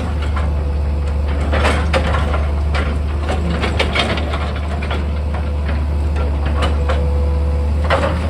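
Excavator's diesel engine running with a steady low hum, under irregular cracks and crunches of rock and soil, a sharp one about two seconds in and another near the end.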